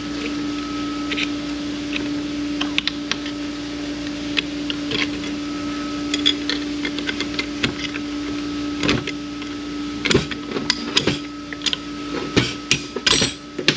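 A steady mechanical hum with one even tone, which stops near the end. Metal transmission parts clink and knock against each other and the bench, scattered at first and then in a quick run in the last few seconds.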